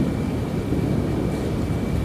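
Low, rolling rumble of distant thunder over steady rain.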